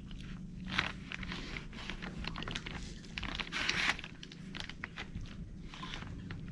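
Fingers pushing and working thick grease into a CV joint's bearings, giving irregular sticky, squishy smacks, the strongest about a second in and again a little past halfway. A steady low hum runs underneath.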